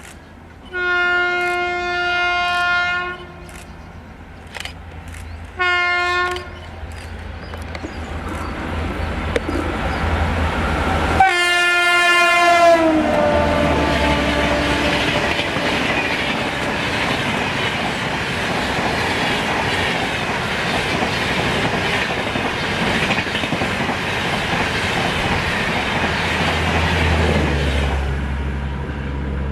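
WAP-7 electric locomotive horn: a long blast about a second in, then two short blasts. After a cut, a horn blast falls in pitch as a train passes at speed, followed by the steady rumble and clatter of the coaches going by.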